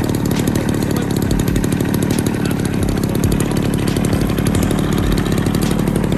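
Small two-stroke engine taken from a knapsack crop-sprayer, running steadily at high speed with a buzzing, chainsaw-like note.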